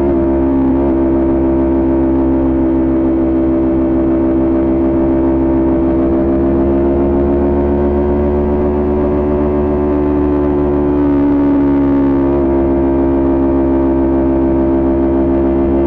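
Kawasaki Ninja 400 parallel-twin engine with a Coffman exhaust, running at steady high revs under way. The pitch holds nearly constant, easing up slightly and dropping back a little past the middle.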